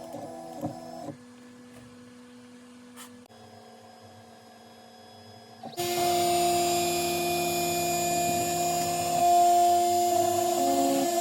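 Fox Alien CNC router: a low hum with a few knocks, then about halfway through the machine starts up loud, with a steady high machine whine and hiss whose tones shift slightly a couple of times.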